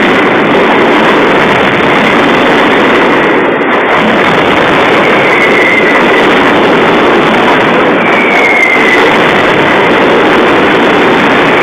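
Daytime fireworks barrage: a dense, continuous roar of explosions loud enough to overload the recording, with falling whistles from whistling fireworks three times.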